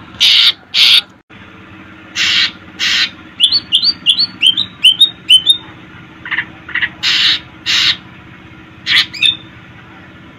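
Green leafbird (cucak ijo) calling: harsh rasping notes in pairs, then a quick run of about eight short hooked whistles, then more paired harsh notes and a few shorter calls.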